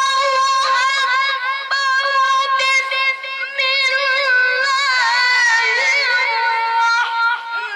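A child's high voice chanting Quranic recitation (tilawah), sustaining one long phrase in held, wavering, ornamented notes. The phrase breaks off briefly near the end, and a new one begins.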